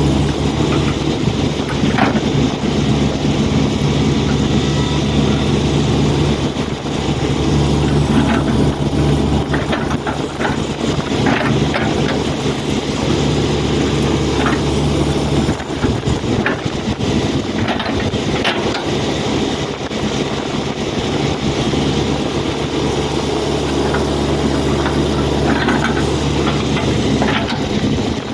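Hitachi hydraulic excavator's diesel engine running under working load, its pitch shifting a few times, with occasional short knocks and clanks.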